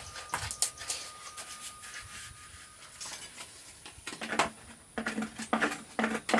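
Scattered scraping and tapping of a hand tool working wet cement onto a gourd.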